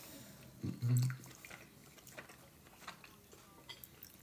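A person chewing a mouthful of soft gnocchi with the mouth closed, with faint wet mouth clicks. About a second in there is a short, low hum through the closed mouth, the loudest sound.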